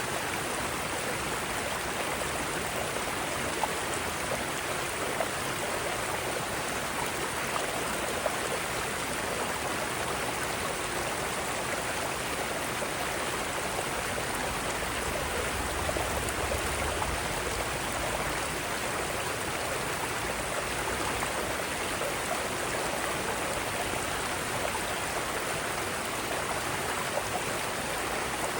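Mountain stream flowing over rocks: a steady rushing and splashing of water, with small gurgles and drips through it.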